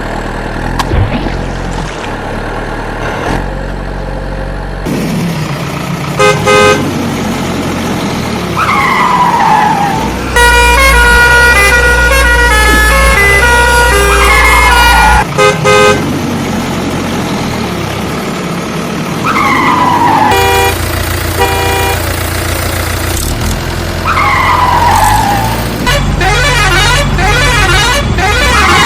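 Cartoon vehicle sound effects: a low engine rumble runs throughout, broken by short horn honks and a longer stretch of changing horn tones. Falling-pitch glides recur every few seconds.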